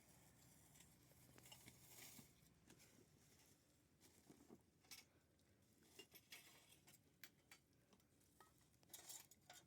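Near silence with faint, scattered clicks and light clinks, like small things being handled.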